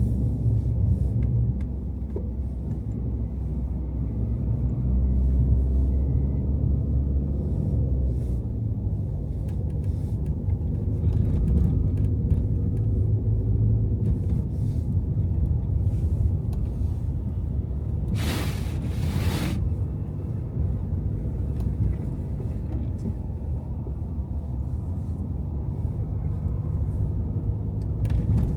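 Car driving on snowy city streets: a steady low rumble of road and engine noise, with a brief rushing hiss about two-thirds of the way through.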